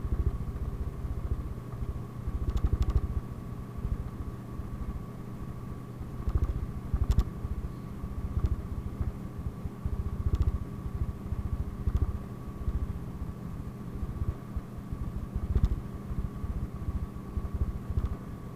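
Inside a PAZ-32054 bus on the move: a steady engine and road rumble with a constant thin whine, and a few short knocks and rattles from the body over bumps.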